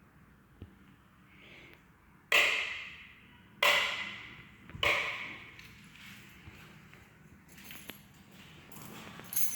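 Three sharp knocks about a second and a quarter apart, each ringing out and fading over about a second, with a few faint ticks afterwards.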